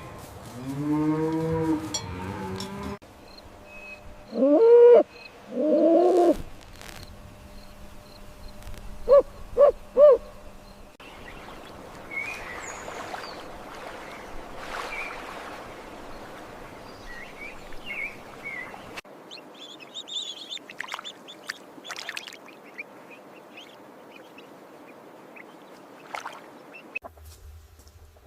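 Cattle mooing: one long moo at the start, two shorter moos about five seconds in, then three short loud calls around ten seconds. After that, small birds chirp over a steady outdoor hiss.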